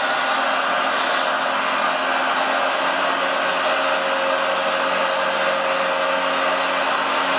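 Small electric motors and gearboxes of remote-control construction models whirring steadily, with a faint held hum and no change in pitch or loudness.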